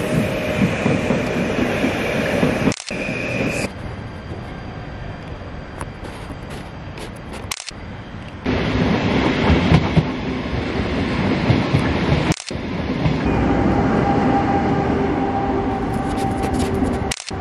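Passenger trains running through a station below, heard in several short stretches joined by abrupt cuts about every five seconds. A steady rumble with some drawn-out tones on top, quieter in the second stretch and louder again in the later ones.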